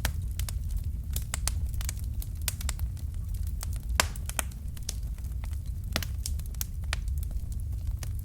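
Fireplace fire crackling: irregular snaps and pops over a steady low rumble, with one sharper pop about four seconds in.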